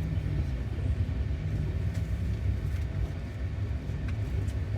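Steady low rumble of a passenger train carriage under way, with a few faint clicks.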